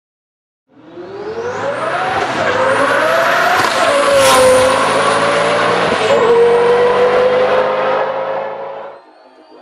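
Twin-turbo Lamborghini Gallardo V10 at full throttle, starting suddenly under a second in. Its pitch climbs and drops twice as it shifts up, then holds steady before cutting off sharply near the end.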